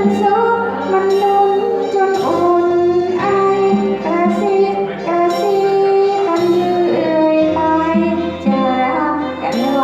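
A song with a woman singing over instrumental accompaniment. The melody moves in long held notes with glides between them.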